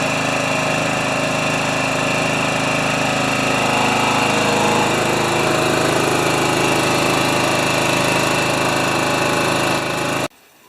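Small gasoline engine running steadily at a fast idle after sitting a while without being primed. The sound cuts off abruptly near the end.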